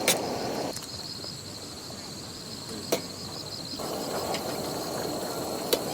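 Insects trilling steadily in one high, evenly pulsing tone, with three sharp clicks: one near the start, one about three seconds in and one near the end. A low rustling noise underneath drops out about a second in and returns near four seconds.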